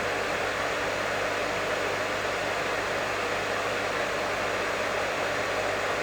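Professional hair dryer running continuously, a steady rush of blown air over a low motor hum.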